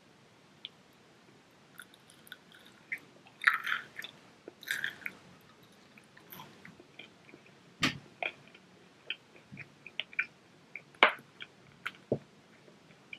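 A child biting and chewing a battered fried king crab leg: scattered wet mouth clicks and light crunches, with a few sharper clicks.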